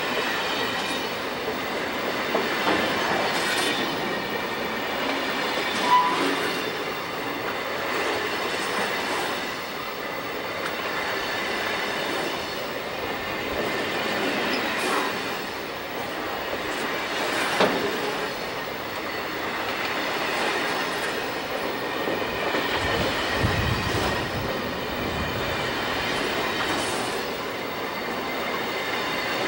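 Empty open-top coal hopper cars of a long freight train rolling past close by: steel wheels running on the rails with a thin wheel squeal. Sharp clanks come now and then, the clearest about six seconds and seventeen seconds in.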